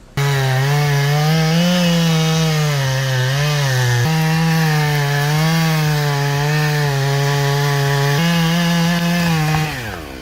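Chainsaw running at high revs while cutting wood, its engine pitch wavering under load, with abrupt jumps in pitch about four and eight seconds in. Near the end the pitch falls as the engine winds down.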